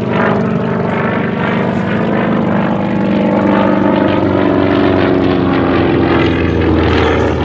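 Grumman FM-2 Wildcat's Wright R-1820 nine-cylinder radial engine running loud as the fighter flies past, its propeller note sliding slowly lower in pitch partway through.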